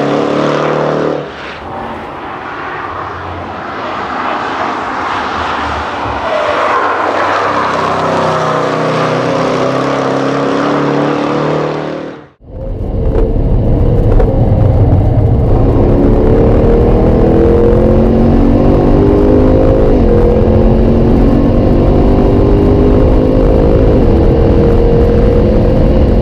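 Jaguar F-Pace SVR prototype's supercharged 5.0-litre V8 at full throttle, its exhaust loud. Early on the engine note falls away and then builds again. After an abrupt cut about halfway, the car accelerates hard, its pitch climbing and dropping back at several upshifts.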